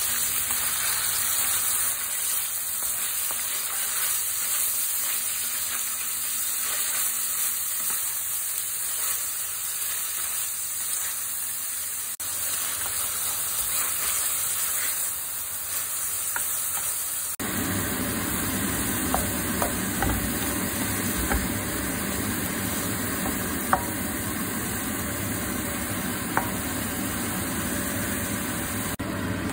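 Thinly sliced beef sizzling in hot oil in a pan, then shredded cabbage and carrot being stir-fried. It is a steady frying hiss that becomes fuller partway through, with a few sharp clicks from the stirring.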